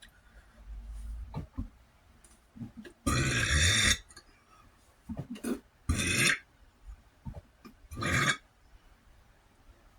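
A person burping loudly three times, one long burp about three seconds in and two shorter ones after it. The speaker puts the burping down to eating a spicy meal of rice, eggs and chilies quickly with water.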